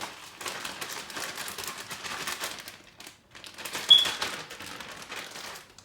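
Plastic bag of crushed Takis chips crinkling and rustling as a chicken tender is rolled around in it, in two stretches with a short break about three seconds in. A sharp clink about four seconds in.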